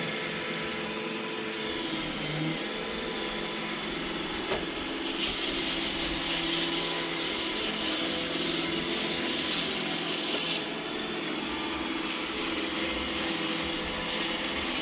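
iRobot Roomba E6 robot vacuum running: a steady motor hum with a hiss from its suction fan and brushes. The hiss grows louder about five seconds in and dips briefly later.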